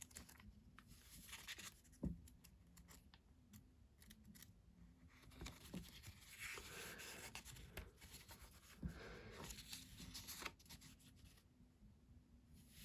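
Near silence with faint handling noise: soft rustling and a few light knocks.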